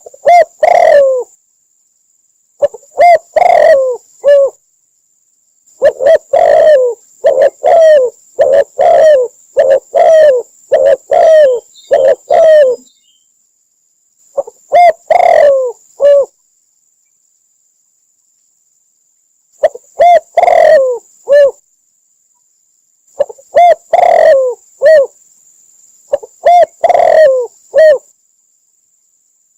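Spotted dove cooing in repeated short phrases, separated by pauses of one to three seconds, with one long unbroken run of coos in the first half.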